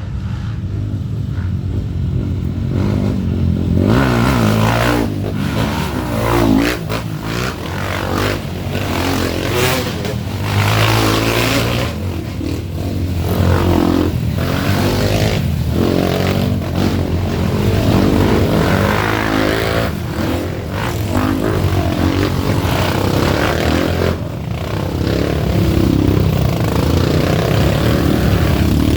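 Off-road trail motorcycle engines revving again and again, the pitch climbing and dropping with the throttle.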